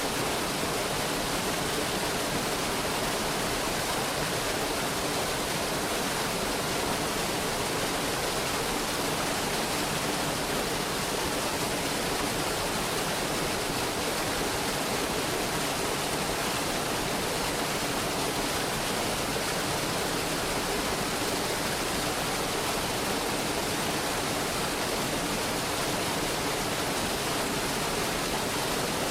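Mountain stream rushing over rocks in a steady, unbroken wash of water noise.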